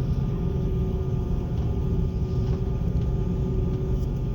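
Airliner cabin noise with the engines running before takeoff: a steady low rumble with a constant hum.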